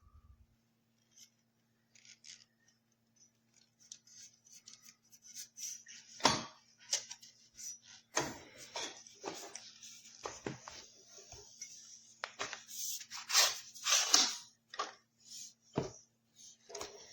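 Irregular clicks, knocks and rustles of objects being handled, sparse at first and busier from about halfway, over a faint steady hum.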